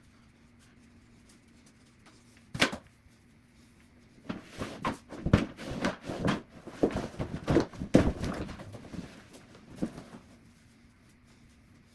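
Household tidying noises sped up to double speed: a single knock, then about six seconds of clattering, knocking and rustling as objects are handled and put away.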